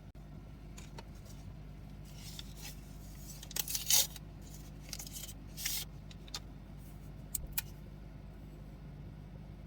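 Things being handled: short scraping and rustling sounds, loudest about four seconds in, and a few sharp clicks later, over a steady low hum.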